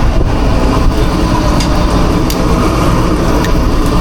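Steady loud rumble of food truck kitchen machinery running, with a few light clicks about one and a half, two and a half and three and a half seconds in.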